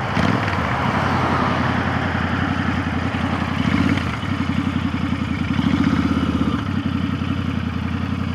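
Motorcycle engine running under way, its exhaust pulses changing in speed as the rider works the throttle, with a steady rush of wind noise over it.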